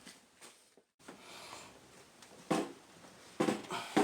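A few sharp knocks and clunks of hard parts being handled, with a soft rustle just after a second in; the loudest knocks come about two and a half and three and a half seconds in.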